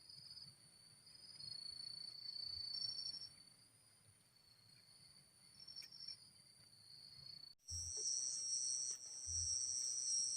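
Forest insects trilling steadily in high-pitched, pulsing calls; about seven and a half seconds in the sound switches abruptly to a louder, higher insect drone, with a few faint low knocks.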